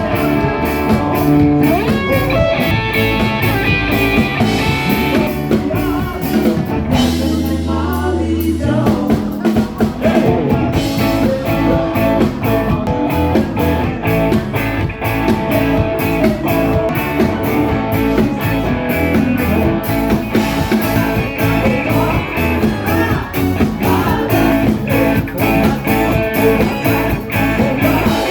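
Rock band playing: electric guitar and drum kit keeping a steady beat, with singing.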